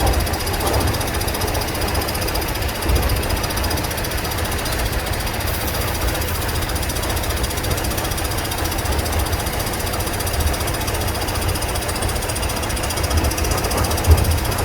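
A heavy engine running with a steady low rumble and a rapid mechanical clatter.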